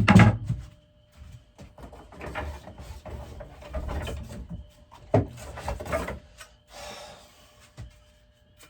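Axe head being tried onto a wooden axe handle: a loud knock at the start, wood rubbing and scraping, and another sharp knock about five seconds in.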